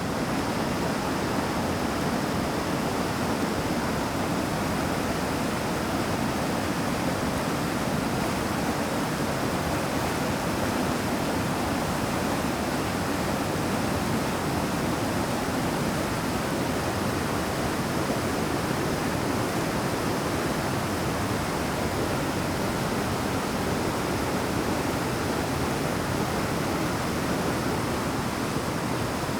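Fast mountain stream rushing over rapids: a steady, even wash of water noise.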